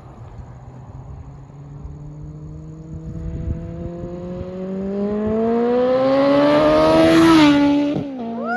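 2008 Kawasaki Concourse 14's inline-four engine accelerating hard, its pitch and loudness climbing steadily for several seconds. Near the end the pitch drops sharply, and there is one short rev blip.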